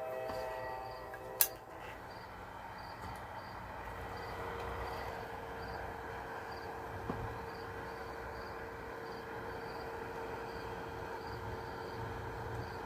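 Steady background hum with a cricket chirping in short, even pulses about twice a second. One sharp click comes about a second and a half in.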